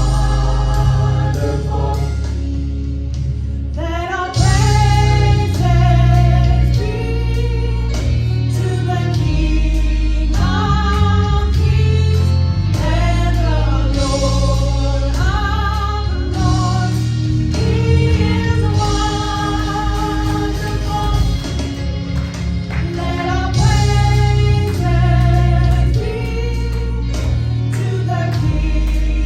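Gospel choir singing with instrumental backing and a strong bass line.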